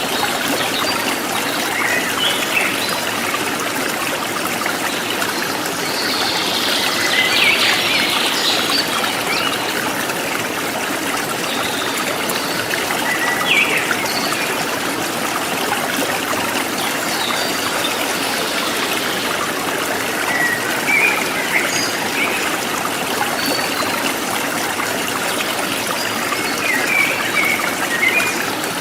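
River water flowing over rocks: a steady rush with brief brighter gurgles and splashes now and then.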